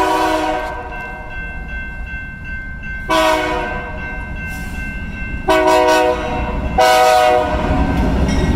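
Freight locomotive's multi-chime air horn sounding a chord in separate blasts: one ends just after the start, a longer one follows about three seconds in, then two shorter ones close together. A rising rumble of the approaching train builds near the end.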